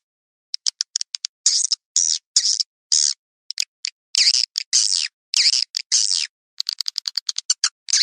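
Swiftlets twittering: a rapid series of short, harsh chirps, broken by quick strings of clicks about half a second in and again near seven seconds, with dead silence between the calls. It is a swiftlet lure call, the kind played from swiftlet houses to draw the birds in.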